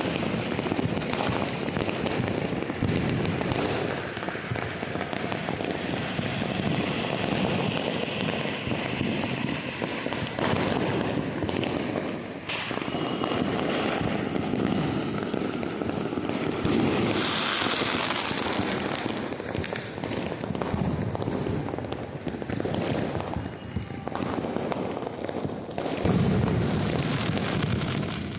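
Firecrackers going off nonstop: a dense run of overlapping pops and bangs with no break, and a brief louder hiss about two-thirds of the way through.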